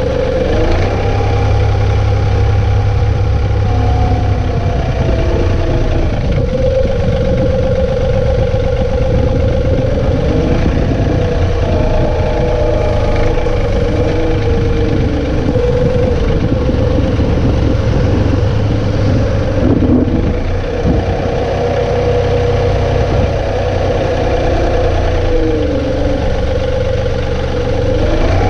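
John Deere 2032R compact tractor's three-cylinder diesel running steadily, with a whine that rises and falls in pitch several times as the tractor works.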